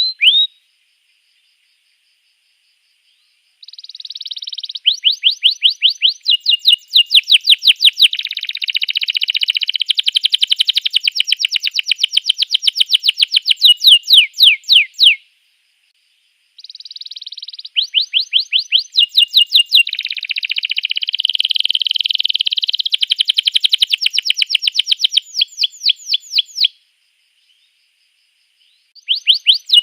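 Domestic canary singing: long songs of fast repeated high notes and rolling trills, in two bouts of about ten seconds each with short silent pauses between, and a new bout starting near the end.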